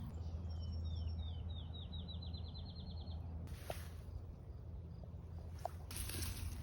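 A songbird sings a series of short down-slurred whistled notes that speed up into a quick trill and end about three seconds in, over a steady low outdoor hum. There are a couple of brief rustles later.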